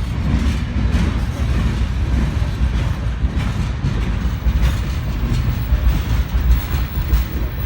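Long freight train rolling past, a steady low rumble with scattered faint knocks from the cars.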